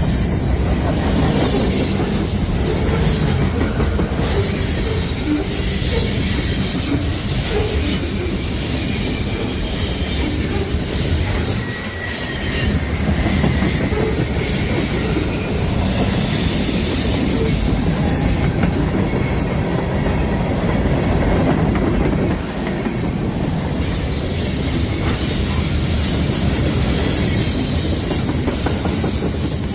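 A train passing close by, its wheels rumbling steadily on the rails with short high squeals now and then and a long high whine near the end.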